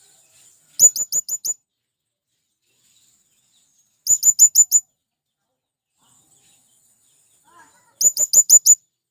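Male blue-crowned hanging parrot (serindit) calling: three quick bursts of five or six sharp, high-pitched notes, about four seconds apart.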